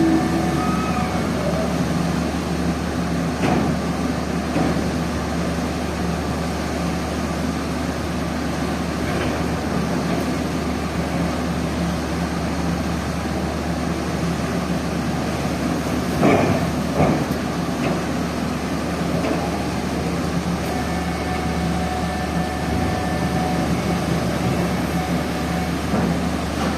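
Steady low drone of a ferry's engines and machinery in the vehicle hold, with a few scattered knocks and a brief clatter about two thirds of the way through.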